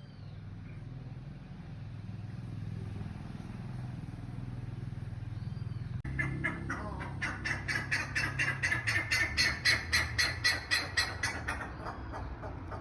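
A bird giving a fast series of repeated calls, about four a second, starting about halfway through, growing louder, then stopping shortly before the end. A steady low rumble runs underneath.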